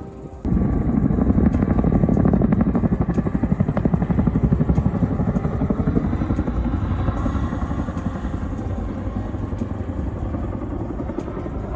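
A vehicle running with a rapid, even pulsing beat. It starts abruptly about half a second in and slowly fades.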